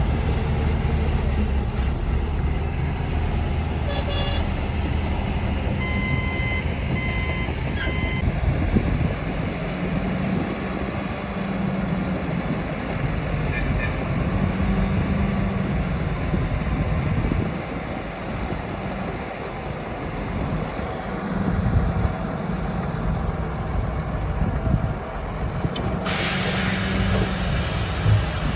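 Heavy diesel earthmoving machinery, a bulldozer and dump trucks, running, the engine note rising and falling under load. Three short reversing beeps come about six seconds in, and a long air hiss near the end.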